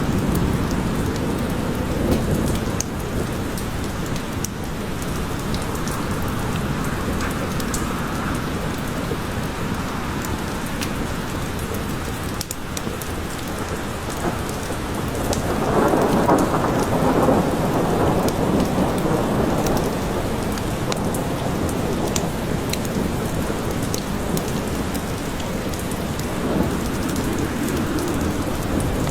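Steady rain falling in a forest, with a low rumble of thunder swelling up about halfway through and fainter rolls near the end.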